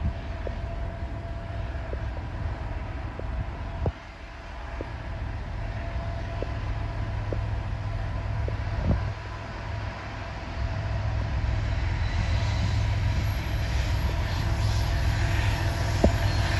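Canadian National freight train's diesel locomotives approaching: a low rumble that grows steadily louder over the last several seconds, joined near the end by rising wheel-on-rail noise.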